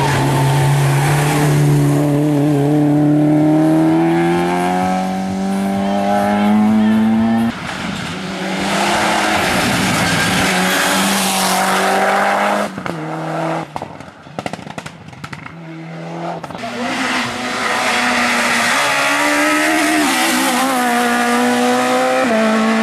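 Race car engine under hard acceleration, its pitch climbing steadily for about seven seconds before breaking off. Engine sound picks up again, drops away briefly a little past the middle, then returns at high revs.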